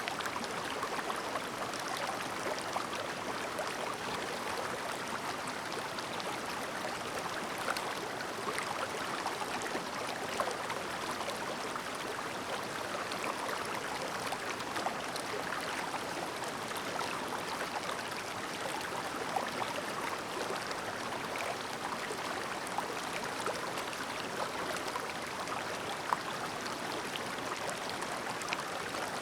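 Clear mountain stream babbling: a steady, even rush of flowing water with many tiny splashes through it.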